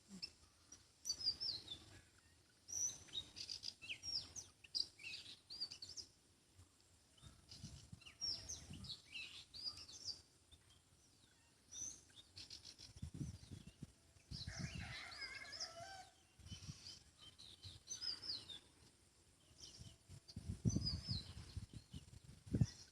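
Small birds chirping and tweeting in short, high, quick phrases throughout, with several low rumbles now and then underneath.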